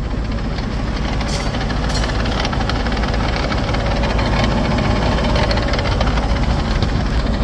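Tractor engine running steadily, with a couple of brief clicks in the first two seconds.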